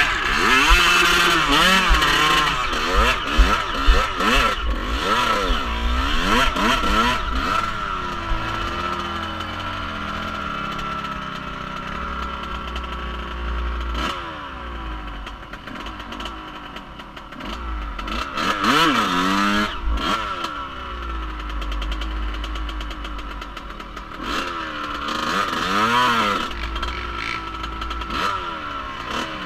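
Off-road vehicle engine being ridden, revving up and down over and over: quick surges in the first several seconds, a steadier stretch, then more surges later on.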